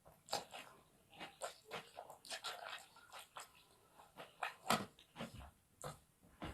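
A person chewing fried rice stick noodles, with many short wet mouth clicks and smacks and a few sharper bites; the loudest comes a little past halfway.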